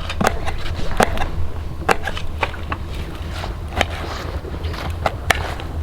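A knife chopping on a lid used as a chopping board: a string of sharp, unevenly spaced knocks, about one every half second to a second, over a steady low wind rumble.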